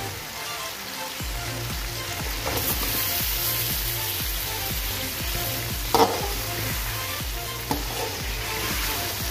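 Chicken and onion-tomato masala sizzling in a karahi while potato wedges are added and stirred in with a metal spoon. There is a sharp clack of the spoon against the pan about six seconds in.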